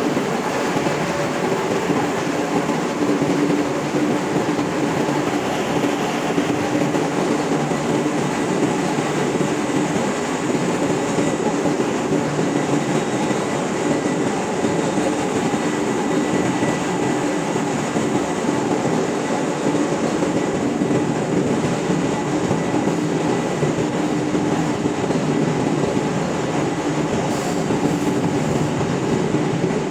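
Ship's engine room machinery running steadily: a loud, even drone with a constant low hum through it.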